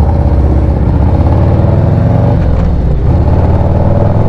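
Motorcycle engine running while riding, loud and steady, its note shifting up and down a little with the throttle.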